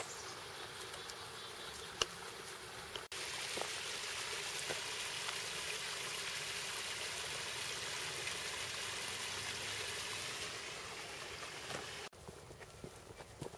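A steady rushing noise with a few faint clicks; it gets louder about three seconds in and drops off abruptly near the end.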